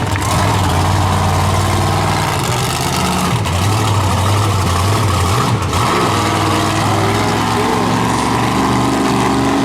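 Monster truck engine running loudly at a fairly steady speed, with small rises and falls in pitch as the throttle is blipped.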